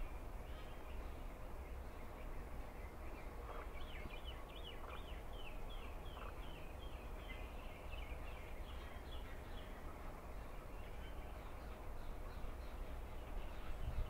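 A bird calling a quick run of short, falling notes, about two or three a second, starting a few seconds in and stopping about two-thirds of the way through, over a steady low outdoor rumble.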